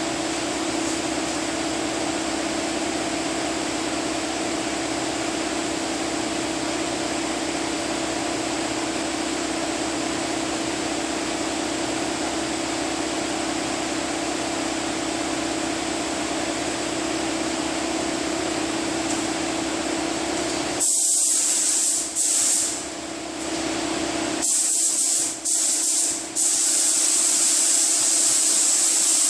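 A steady machine hum with a pitched drone runs for about the first twenty seconds. Then a spray gun starts laying on clear coat: a loud hiss in several bursts with short breaks where the trigger is let off, running steadily near the end.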